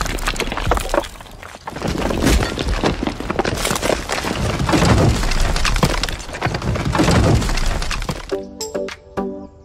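A load of small stones rattling and spilling out of a miniature tipping trolley, with a tiny metal shovel scraping among them, in a dense clatter that stops about eight seconds in. Background music takes over near the end.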